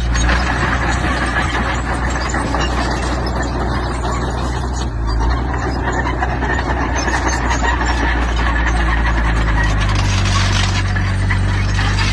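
Diesel engine of earth-moving machinery running steadily under load, with a continuous rattling, scraping clatter over it; the engine's low hum grows a little stronger about ten seconds in.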